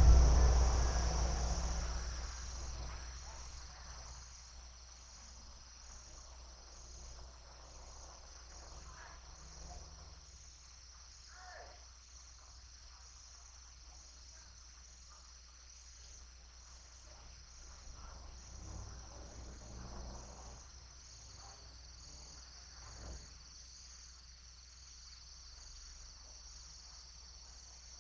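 Steady high-pitched insect chorus, a continuous shrill trilling. A loud low thump opens the recording and dies away over about two seconds.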